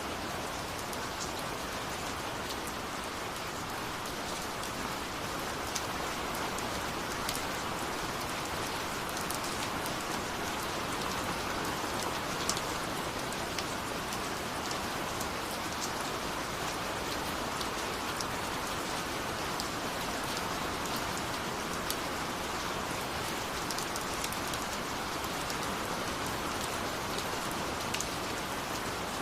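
Steady rain falling on a surface, with individual drops ticking now and then.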